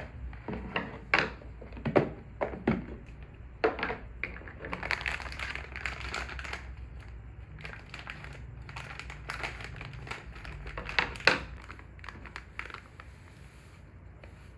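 Objects being handled at close range: irregular clicks and knocks, with crinkling rustle, like packaging, about five to seven seconds in.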